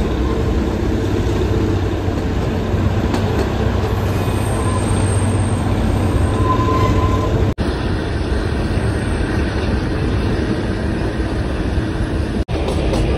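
Narrow-gauge Kalka–Shimla toy train running along the track, a steady rumble of the coach and its wheels on the rails. The sound breaks off for an instant twice, about halfway and near the end.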